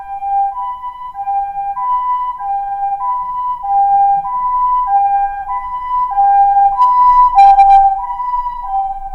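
Two-tone hi-lo siren alternating evenly between a higher and a lower pitch, about two changes a second. A short crackle breaks in about seven and a half seconds in.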